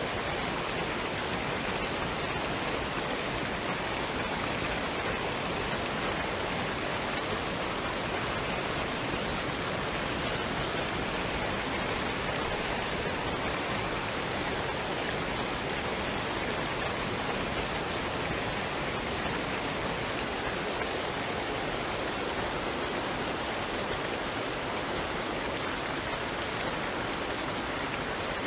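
Waterfall and stream water rushing in a steady, even wash of noise.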